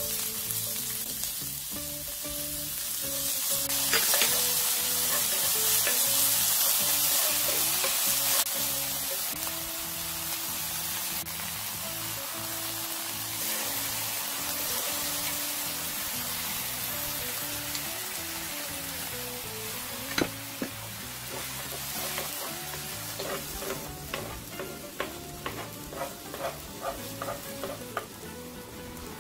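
Chopped onion, then tomato, sizzling in hot olive oil in a nonstick frying pan while being stirred with a wooden spoon; the sizzle is loudest a few seconds in. Near the end comes a run of short clicks as the spoon works against the pan. Soft background music plays underneath.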